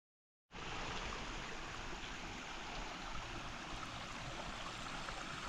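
Steady hiss of water, starting abruptly about half a second in after dead silence, with a few faint ticks.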